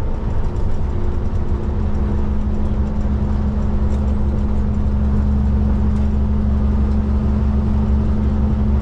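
Steady low drone of a Kenworth K200 cabover's Cummins diesel engine heard inside the cab while the truck cruises.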